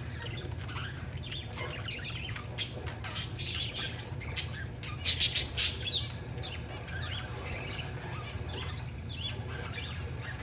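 Pet parakeets and zebra finches calling together: short sharp chirps and squawks scattered throughout, the loudest cluster about five seconds in, over a steady low hum.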